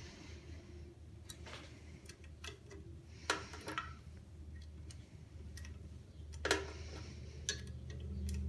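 Scattered metallic clicks and taps of set screws being tightened on a drill press head, two of them sharper than the rest, about three and six and a half seconds in. A steady low hum lies underneath.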